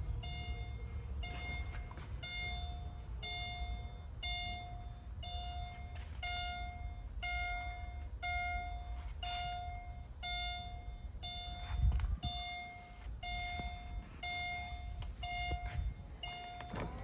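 Car warning chime from a 2003 Mercedes-Benz SL55, a steady pitched beep repeating about once a second, over low rumble, with a single thump about twelve seconds in.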